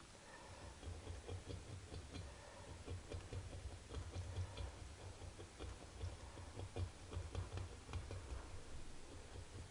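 Hand tool scraping carbon deposits off a motorcycle cylinder head, an uneven run of small scrapes and clicks.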